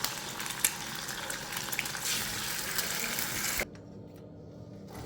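Rain falling: a dense hiss with scattered drop ticks. It cuts off abruptly about three and a half seconds in, leaving a much quieter stretch.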